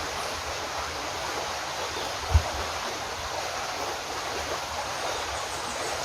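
Steady rushing outdoor noise, with one brief low thump about two and a half seconds in.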